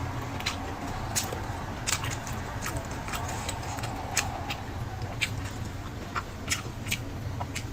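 Close-miked eating sounds: irregular wet mouth clicks and smacks of chewing, over a steady low hum.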